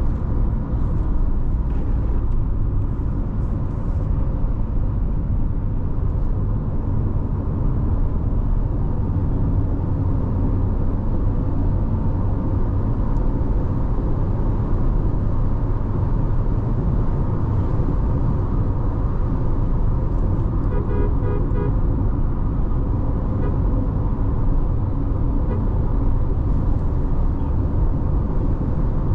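In-cabin sound of a Nissan Tekton cruising on the highway: a steady low rumble from its 1.3-litre turbo petrol engine and the tyres on the road, with no change in pace.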